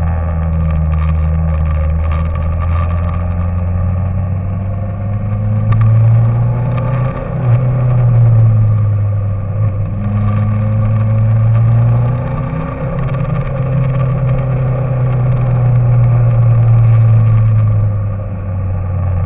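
An engine or motor running continuously, its low pitch drifting slowly up and down.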